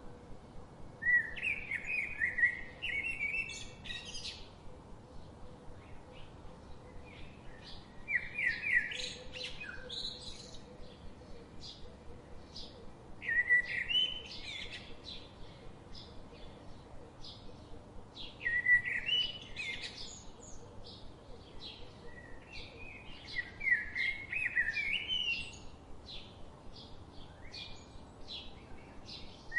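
Songbirds singing: one bird repeats a loud warbling phrase of two to three seconds about every five seconds, five times, while other birds chirp faintly in between.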